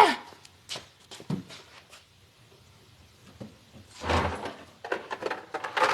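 Tools and parts being handled: scattered knocks and clatters, a longer scraping rustle with a low thud about four seconds in, and a quick run of clicks and knocks near the end.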